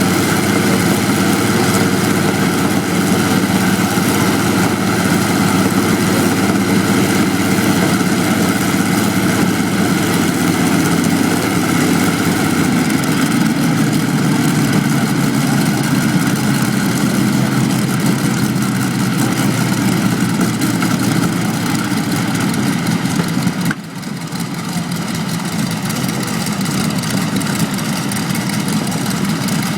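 Aeroplane engines running, loud and steady. The deepest part of the sound falls away about halfway through, and the level dips briefly about three-quarters of the way in before building again.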